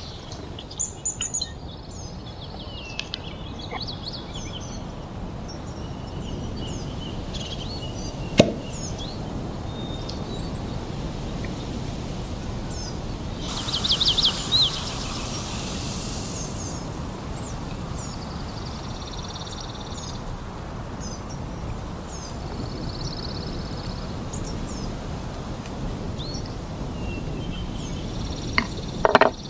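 Birds chirping and trilling over a steady rushing background noise. A single sharp knock comes about a third of the way in, and a brief burst of hiss comes around the middle.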